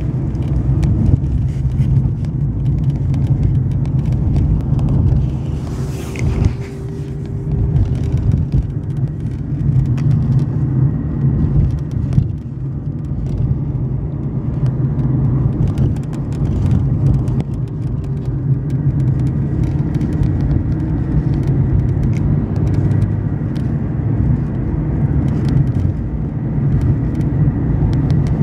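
Renault Fluence on the move: a steady road rumble with frequent short creaks and clicks from the rear of the car's body.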